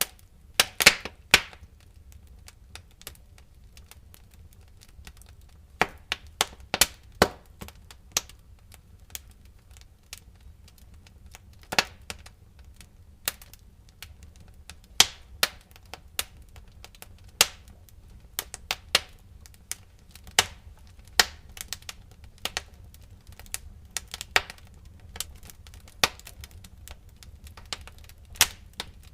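Wood fire crackling in a fireplace: irregular sharp pops and snaps, some loud and some faint, over a low steady hiss.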